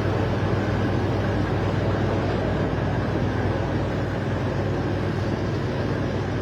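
Boat engine running steadily under load, a low, even drone with noise over it, heard from on board.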